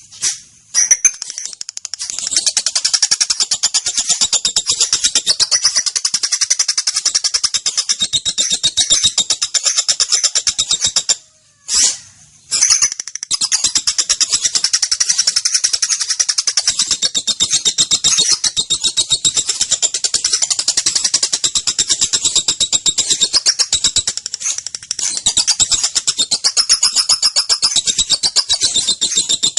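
Female lovebird giving its long ngekek song: a shrill, very rapid chattering trill. It breaks off briefly about eleven seconds in, then runs on.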